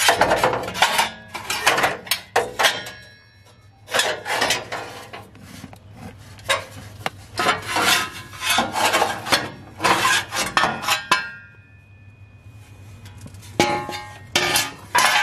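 Repeated metallic clanking, scraping and clinking as the thin sheet-metal exhaust heat shield and hand tools are worked against the exhaust, with brief ringing of struck metal. Two pauses break it: one a few seconds in and one near the end.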